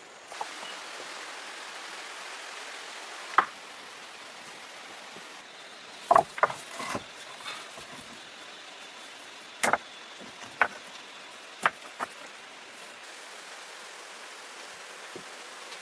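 A series of sharp knocks and taps, about eight, irregularly spaced and loudest a few seconds in, over a steady outdoor hiss.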